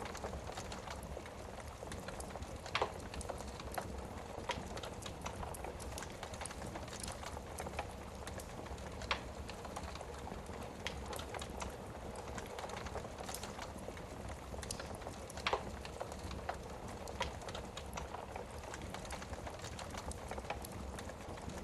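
Wood fire burning in a fireplace: a steady hiss with frequent small crackles, and two louder pops, one about three seconds in and one about fifteen seconds in.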